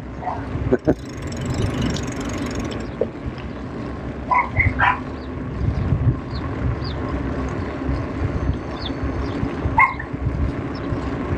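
Steady low rumble of wind and rolling noise while riding a bicycle. A dog barks twice about four to five seconds in and once more near the end.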